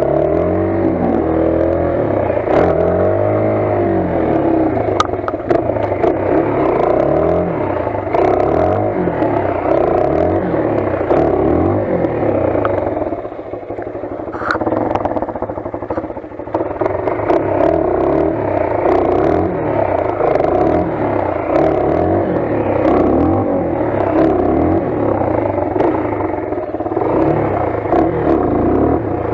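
Motoland XR 250 enduro motorcycle's single-cylinder four-stroke engine under way, its pitch rising and falling every second or two as the throttle is opened and closed. The engine eases off for a few seconds about halfway through, with clattering and rattling throughout.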